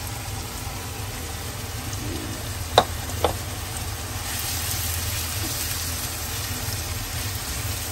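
Chopped onions and whole spices frying in oil in a pan, a steady sizzle, as garlic-ginger paste is added and stirred in with a wooden spatula. Two sharp knocks come about three seconds in, half a second apart, and the sizzle grows brighter in the second half.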